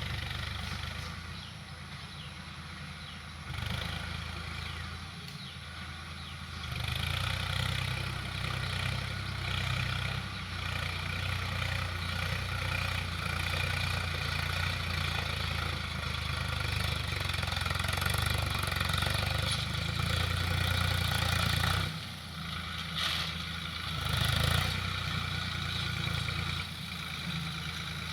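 Swaraj tractor's diesel engine running, louder from about a quarter of the way in, with a brief drop about three quarters of the way through.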